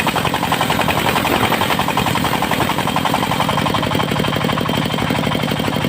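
Diesel engine of a portable circular sawmill running with a rapid, steady knocking beat.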